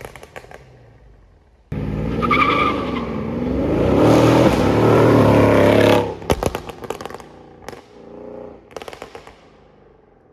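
Mercedes-AMG CLS 63 V8 exhaust cutting in abruptly and running hard for about four seconds, its pitch rising and falling. Then a burst of crackles and pops as it comes off the throttle, and a second, fainter burst of pops near the end.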